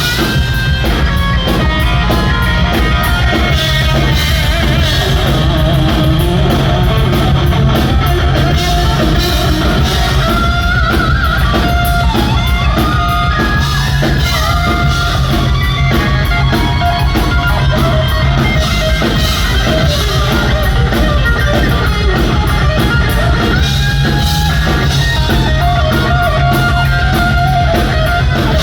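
Hard rock band playing live and loud: electric guitar over bass and a drum kit.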